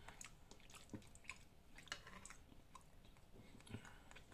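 Faint chewing of a mouthful of pasta, with a few scattered light clicks of a fork in a baking pan.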